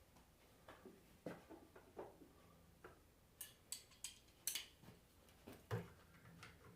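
Faint scattered clicks and light taps of small metal alternator parts and hand tools being handled during disassembly, several in quick succession about halfway through.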